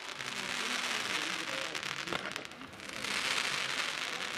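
New Year's Eve fireworks crackling densely: a continuous hiss of many small pops that swells about three seconds in, with an occasional sharper crack.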